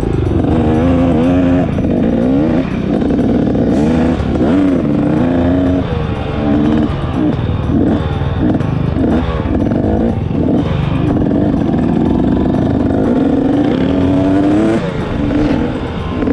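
Motorcycle engine running under way, its pitch rising and then dropping again and again as the rider accelerates and shifts gears.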